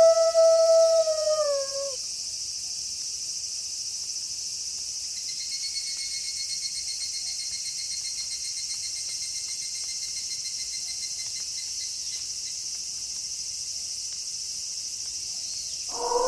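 A wolf howl holding one steady pitch, then sliding down and ending about two seconds in, over a steady chirring of night insects. A fast pulsing cricket trill joins for several seconds in the middle, and another howl starts right at the end.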